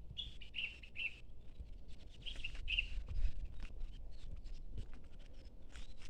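Small birds chirping: many short, quick calls in clusters, over a steady low rumble.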